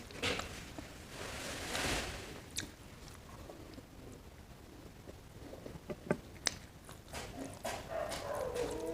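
Close-up eating sounds: chewing, a crunchy bite and a few sharp clicks. Near the end, a short wavering whine that falls in pitch.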